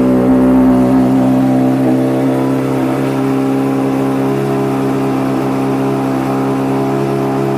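2013 Honda CBR600RR's inline-four engine, fitted with an aftermarket Toce exhaust, idling steadily just after starting. It runs a touch louder for the first couple of seconds, then settles.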